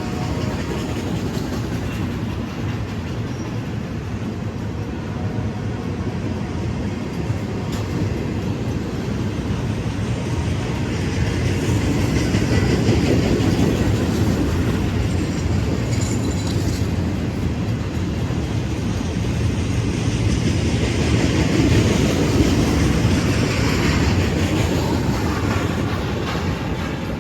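Union Pacific freight train's cars rolling past, a steady rumble and rattle of wheels on the rails that swells louder twice.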